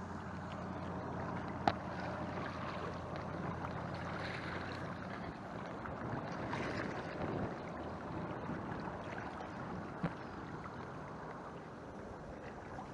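Canoe paddling on calm water: a paddle swishing and splashing water, with two sharp knocks, the first about two seconds in and the other near ten seconds.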